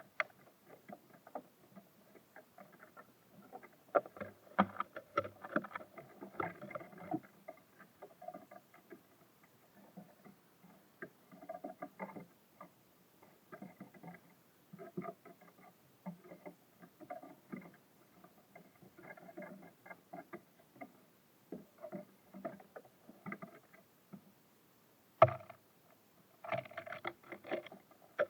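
Small birds feeding at a bird feeder: irregular pecking taps, knocks and scrabbling on the feeder, busiest a few seconds in, with a sharper knock near the end.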